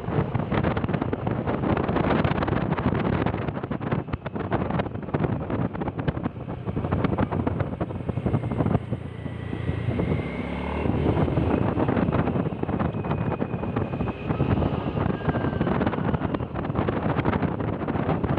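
Wind rushing over the microphone on a moving vehicle, with engine and road noise underneath. It rises and falls in gusts, and a faint thin whine comes in partway through.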